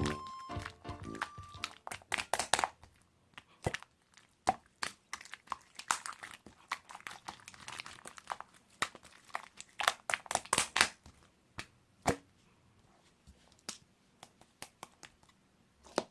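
A short musical phrase ends about two seconds in, followed by irregular clicks, cracks and crinkling noises, some in quick clusters, with quiet gaps between them.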